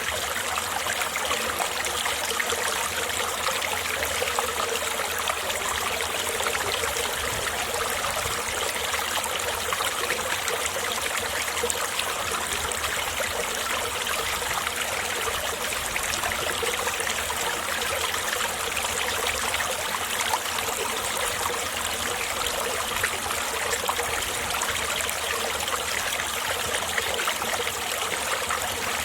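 Winter mountain stream flowing over rocks beneath ice, a steady rushing and splashing of clear water.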